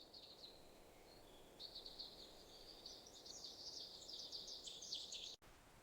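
Faint birdsong: rapid, high twittering chirps that start about a second and a half in and cut off abruptly near the end.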